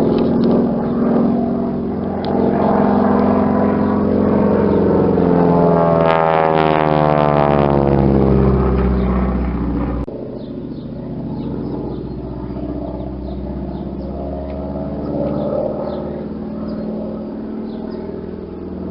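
Aircraft engine drone as a plane flies past, its pitch sliding down as it passes about six to ten seconds in. It cuts off abruptly and gives way to a quieter, steadier engine drone.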